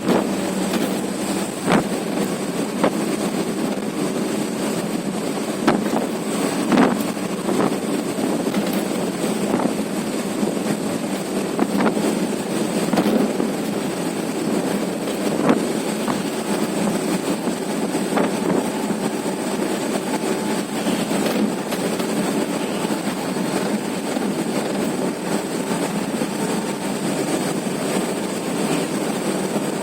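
Steady driving noise of a truck on the highway, with a few short knocks and rattles scattered through it.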